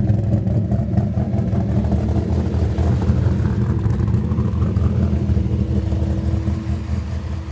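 Hennessey Venom 650R Dodge Viper's V10 engine running at low revs: a loud, deep, uneven exhaust rumble from its twin tailpipes as the car rolls off slowly, with a steady higher hum joining about five seconds in.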